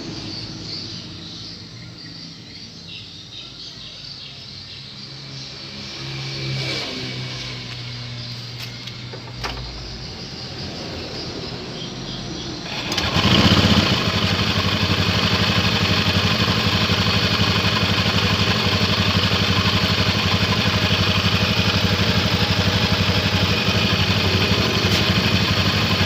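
A small engine or motor is heard faintly with a low hum, then about halfway through a louder motor starts up abruptly and runs steadily until it dies away near the end.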